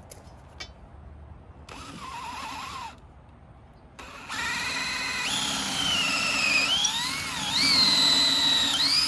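Electric drill with a 27/64-inch bit boring a bolt hole through a post-hole digger handle: a short burst about two seconds in, then from about four seconds in a sustained run whose pitch dips and recovers as the bit takes load.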